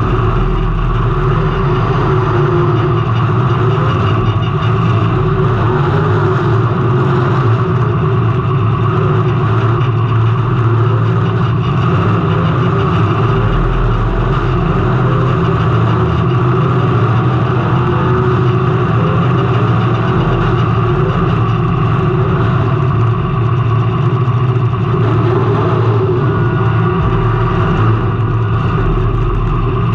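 Race car engine running hard and steady, heard from a camera mounted on the car, with little rise or fall in pitch.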